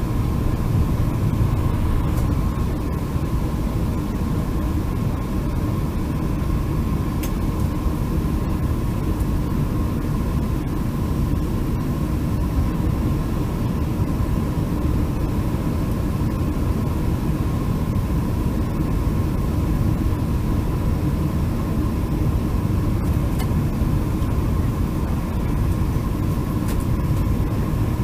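Boeing 747-400 jet airliner noise: a steady low rumble and rushing hiss with a faint constant whine, unchanging throughout.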